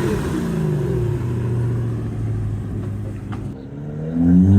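A car's engine pulls away under acceleration, its note dropping and then holding steady as it fades. Near the end a second car revs hard and gets loud, its engine note rising sharply.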